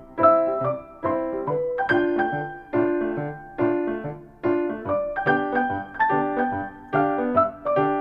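Background piano music: a gentle tune of repeated chords and melody notes, about two or three struck notes a second.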